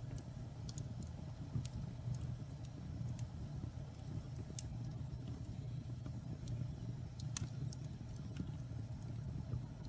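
Wood fire burning in a fireplace: a steady low rumble of flames with scattered sharp crackles and pops of burning logs, one louder pop about seven seconds in.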